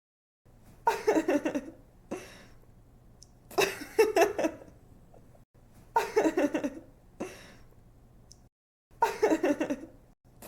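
A young woman giggling: four short bouts of quick, high "ha-ha" pulses, one roughly every two and a half to three seconds, some followed by a quick in-breath. The bouts look alike, as if one laugh clip is looped.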